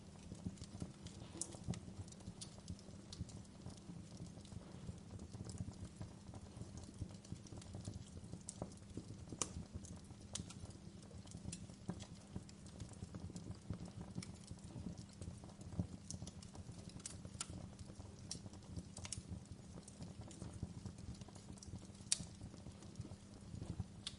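Wood fire crackling: irregular sharp pops and snaps over a low, steady rumble of burning, with a louder pop about nine seconds in and another near the end.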